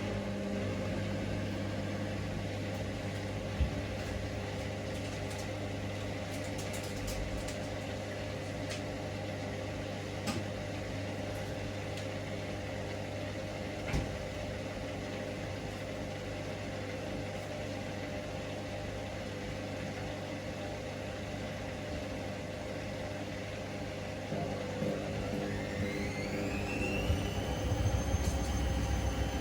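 Hoover Link washing machine on its final spin, the drum turning with a steady motor hum and an odd click. Near the end the motor whine rises in pitch and then holds as the drum speeds up.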